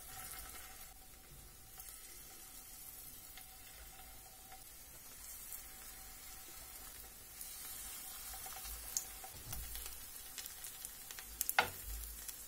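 Fritter batter sizzling quietly in hot vegetable oil in a frying pan as spoonfuls are dropped in. A few sharp clicks of the metal spoon come near the end.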